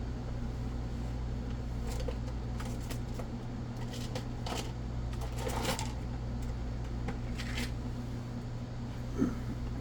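Small scrapes and clicks of tiny parts being handled while an HO-scale model locomotive's gear train is fitted back together, over a steady low hum, with a sharper knock near the end.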